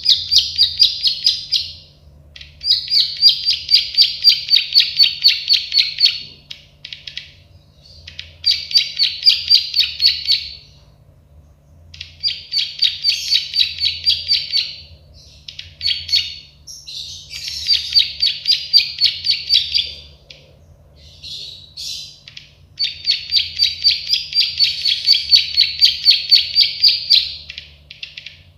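Prenjak sawah, a prinia known as the 'klik-klik' bird, singing in runs of quick sharp clicking notes, about four a second. Each run lasts two to four seconds, with short pauses between.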